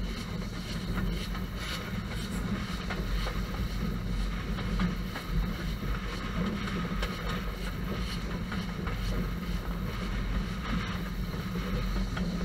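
Steady rumble of a moving heritage-railway passenger train heard from on board a carriage, with faint irregular clicking from the wheels and running gear.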